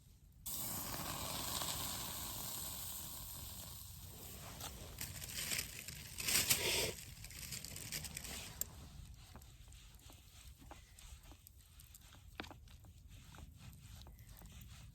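Food sizzling on a hot iron griddle plate over a campfire: a hiss starts suddenly about half a second in and slowly dies down, swells again briefly around the middle, then gives way to scattered crackles and pops.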